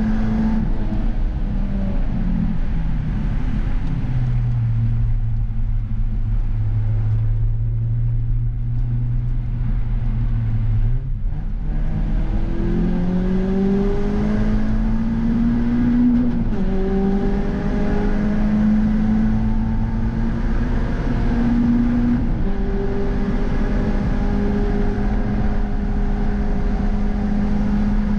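Peugeot 306 GTi6's 2.0-litre four-cylinder engine heard from inside the stripped cabin at track speed, over steady tyre and road noise. The revs drop early on and hold low and steady while the car slows through a corner. From about halfway through it accelerates hard, the revs rising and falling back sharply twice as it shifts up.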